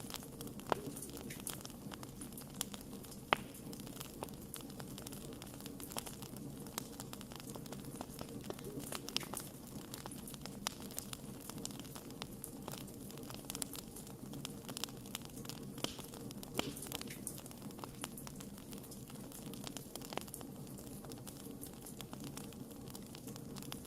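Wood fire burning with a steady low hiss and constant irregular crackling, with two sharper pops about one and three seconds in.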